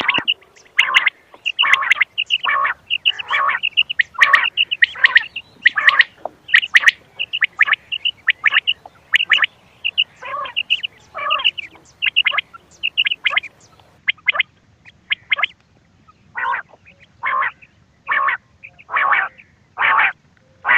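Quail calling: short, sharp calls repeated about once a second, a little more spaced out in the second half. This is a recorded call of the kind played to lure quail when hunting.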